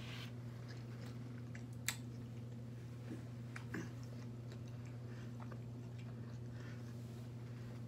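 Person chewing food with the mouth closed: soft, scattered mouth clicks, with one sharp click about two seconds in and a few smaller ones near the middle. A steady low hum runs underneath.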